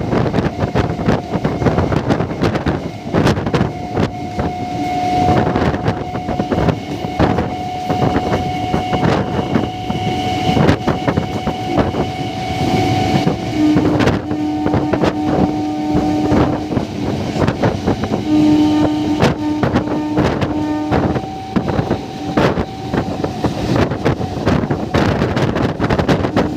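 MEMU electric train running at speed, heard from its open door: a rapid, continuous clatter of wheels on the rails, with wind buffeting the microphone. A low steady tone sounds twice in the second half.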